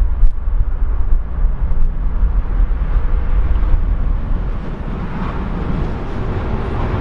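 Mercedes-AMG C63's 4.0-litre twin-turbo V8 running as the car is driven, a steady low rumble of engine and road noise heard from inside the car.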